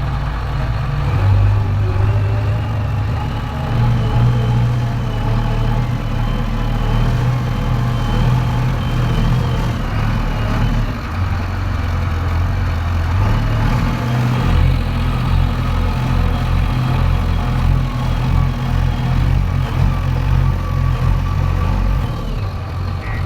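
Heavy diesel engine of earthmoving machinery running steadily, with a faint high whine over the engine's low rumble, which changes pitch about halfway through.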